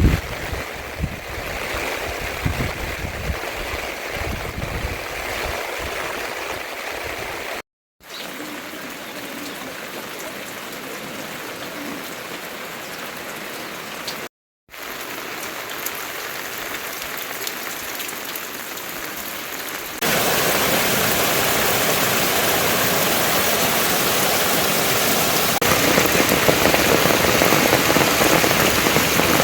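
Heavy rain falling steadily, an even hiss with scattered drop impacts. The rain breaks off into two short silent gaps, about a third and halfway through, and comes in louder and fuller about two-thirds through.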